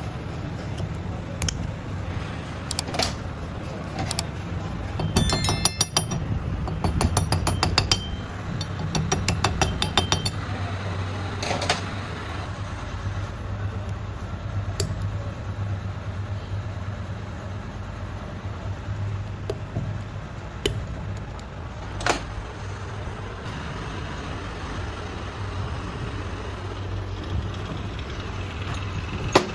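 Metal parts and tools clinking and ringing as they are handled, loudest in a run of bright clinks between about five and ten seconds in, with scattered sharp knocks over a steady low machine hum.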